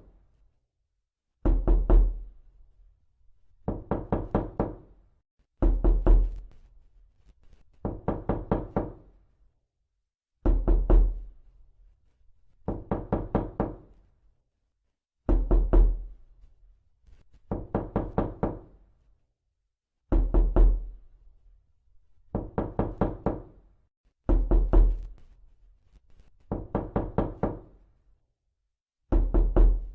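Repeated knocking: quick runs of several sharp knocks, each run about a second long, coming about every two to two and a half seconds. Some runs start with a deeper thud.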